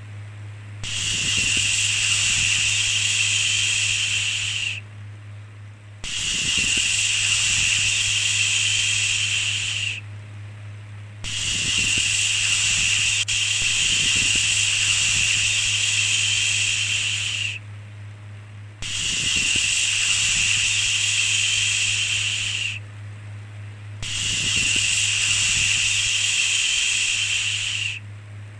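A shushing 'shhh' sound, repeated five times in long strokes of four to six seconds, each separated by a pause of about a second. A steady low hum runs underneath.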